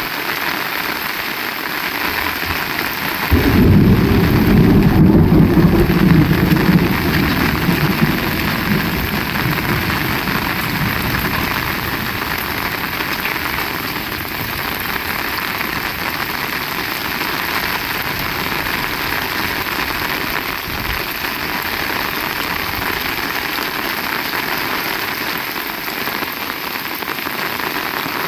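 Heavy rain falling steadily. About three seconds in, a loud roll of thunder starts suddenly and rumbles low, fading away over the next several seconds.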